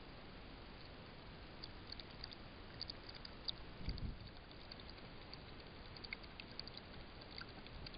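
Trail camera recording: steady low hiss with scattered faint clicks and a short dull thump about four seconds in.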